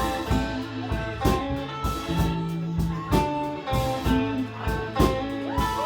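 Live rock band playing an instrumental passage: electric guitar lead over bass and a steady drum beat.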